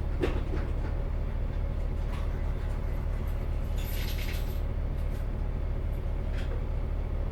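Isuzu KL-LV380L1 bus's V8 diesel engine idling steadily, heard from inside the cabin, with a short hiss about four seconds in.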